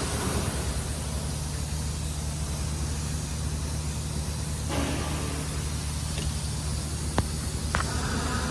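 Toyota Camry's 2AR-FE four-cylinder engine running steadily with a low even hum and hiss, with a couple of faint clicks near the end.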